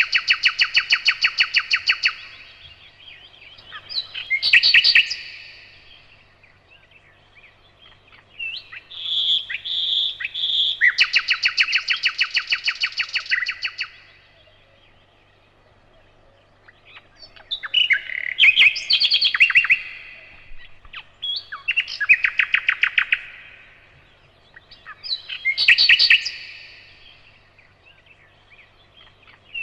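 Nightingale singing: loud phrases of rapid repeated notes, each one to three seconds long, about six of them separated by short pauses.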